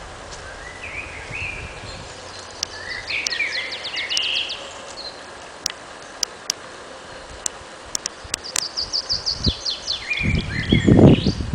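Songbirds singing: two song phrases, each a quick run of descending notes followed by lower ones, with scattered sharp clicks. A loud low rumble sets in near the end.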